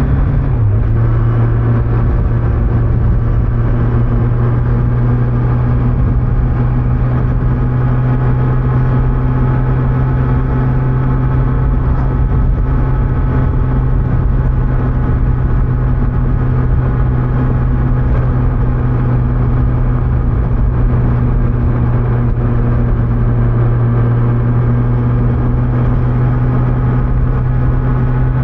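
Kawasaki Z900 motorcycle's inline-four engine running through its stock exhaust at steady cruising revs, with a brief small dip in pitch about half a second in, over constant wind and road noise.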